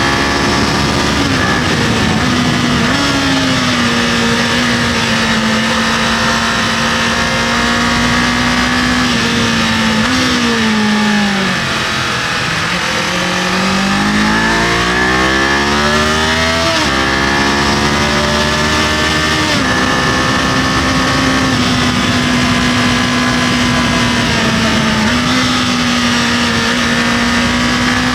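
Kawasaki KLE500's parallel-twin engine under way at a steady cruise, with wind and road noise. About ten seconds in the revs fall away, then climb again through a couple of gear changes before settling back to a steady cruise.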